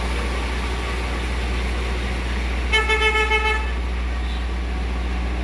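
A vehicle horn sounds for about a second, in quick stuttering toots at one steady pitch, over a steady low rumble.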